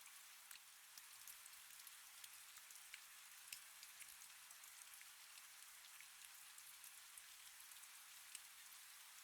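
Faint steady rain: an even hiss of rainfall with many scattered drop ticks.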